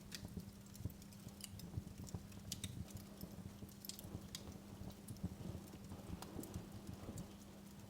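Wood fire crackling in a fireplace: faint, irregular snaps and pops with soft low thumps, over a steady low hum.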